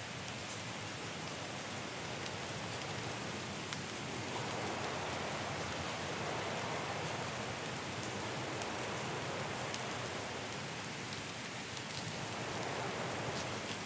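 Steady rain falling, with scattered drops ticking over an even hiss.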